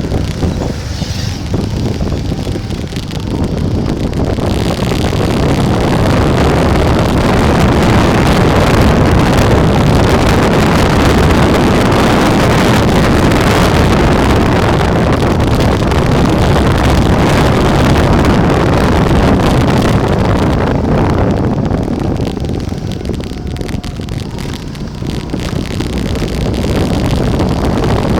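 Wind buffeting the microphone of a moving bike ride, a loud steady rushing that swells through the middle, eases off a little past two-thirds of the way and picks up again near the end.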